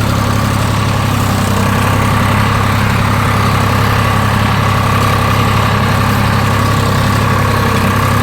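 Old tractor engine idling steadily.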